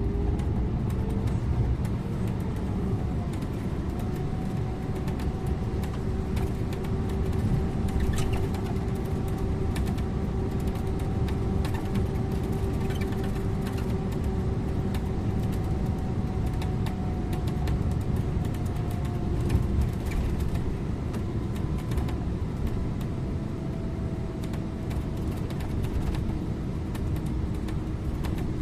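Scania InterLink bus on the move: steady engine and road noise with a whine that drops slightly in pitch near the end, and frequent light rattling clicks.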